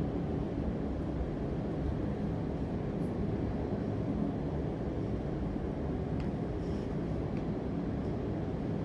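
Steady low rumbling background noise with a faint hum, and a few faint light ticks about six and seven seconds in.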